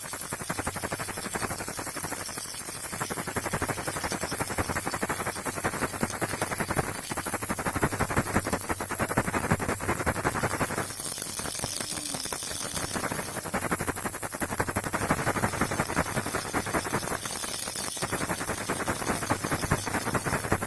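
Baby rattle shaken without a break, a dense, rapid clatter of clicks that keeps an even level.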